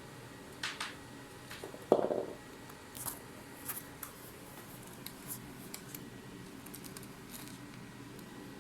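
Bichon havanese puppy playing with a carrot: scattered small clicks and taps, with one louder dull thump about two seconds in.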